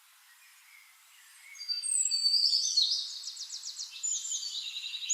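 Bird song: high-pitched chirps and quick trills. It starts about a second and a half in, after near silence.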